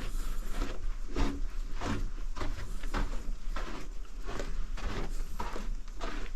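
Footsteps on a tunnel floor at a walking pace of about two steps a second, over a steady low rumble.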